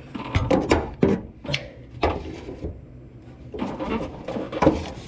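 Metal hand tools clinking and knocking in irregular clusters of clicks, as a half-inch swivel socket is fitted and worked against a transmission bolt.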